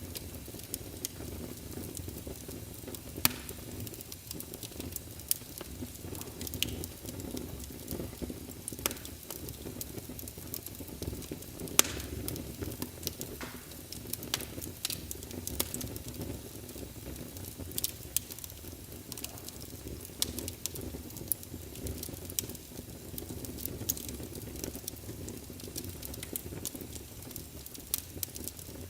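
Wood fire burning in a fireplace, with a steady low rush from the flames and frequent sharp crackles and pops from the logs, a few louder snaps among them.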